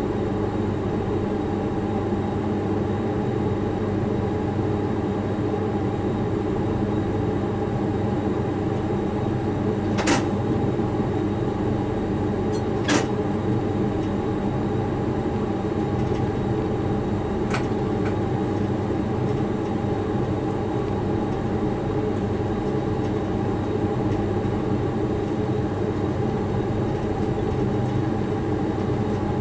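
Freight locomotive running, heard from inside the driver's cab: a steady hum of motor and running noise with several constant tones. Three short, sharp clicks come in the middle.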